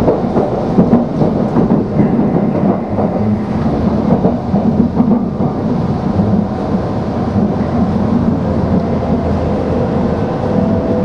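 Steady low rumble of a Tokaido Shinkansen train running at speed, heard inside the passenger car: wheels on rail and running noise, with no break.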